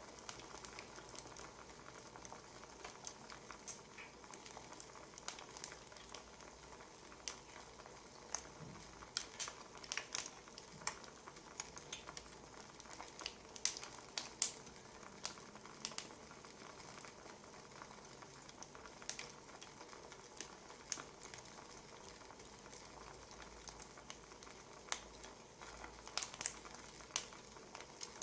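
Wood fire crackling: a faint steady hiss with irregular sharp pops and snaps, busiest around the middle and again near the end.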